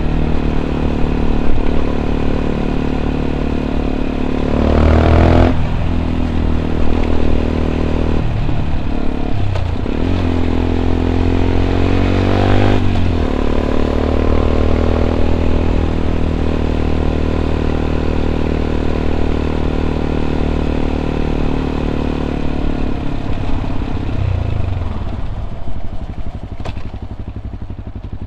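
Yamaha WR 125 X single-cylinder four-stroke engine running through an Arrow exhaust with its dB killer fitted, under way on the road. The revs climb several times in the first half as the bike accelerates through the gears, then hold steady at cruising speed, then fall away near the end as it slows.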